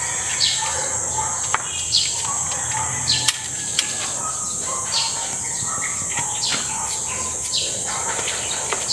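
Birds chirping, short falling calls repeated roughly once a second, over a steady high-pitched buzz.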